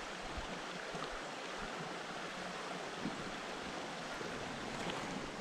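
Steady rush of creek water flowing over a shallow stretch.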